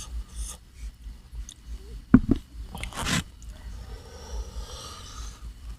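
A person eating seafood papaya salad: chewing and mouth sounds, with a few sharp smacks about two and three seconds in and a soft hiss near the end.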